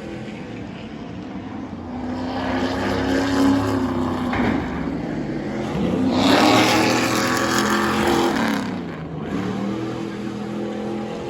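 Race truck engines passing at speed one after another, each pass rising and then falling in pitch; the loudest pass comes about six to eight seconds in.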